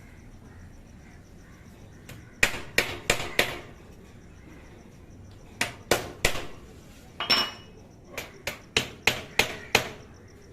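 Hammer driving small nails through wire mesh into thin wooden strips for a cage's base: sharp strikes in quick runs of four, then three, then one, then six, each a few tenths of a second apart.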